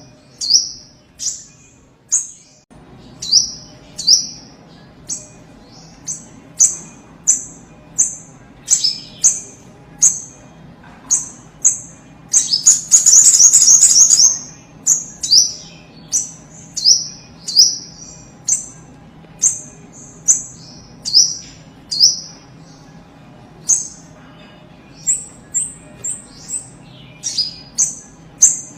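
Little spiderhunter (sogok ontong) calling insistently: a long run of sharp, high, downward-sweeping notes at about one to two a second, broken about halfway through by a rapid chattering trill.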